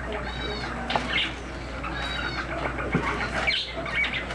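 A bird chirping, two short calls about a second and a half apart, over a steady low hum.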